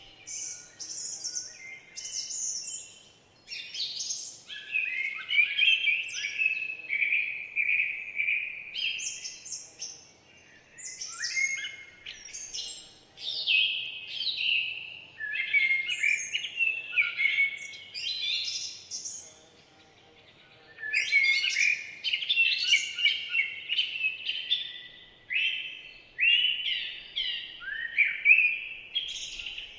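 Forest songbirds singing: a busy stream of quick, high chirps and gliding notes, with short lulls about ten and twenty seconds in.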